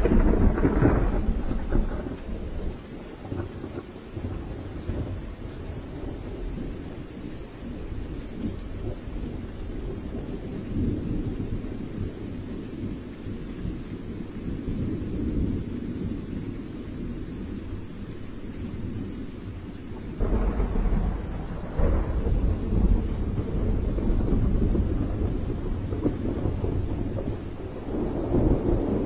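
Thunder rolling over steady heavy rain, with loud rumbling peals at the start, again about 20 seconds in, and near the end.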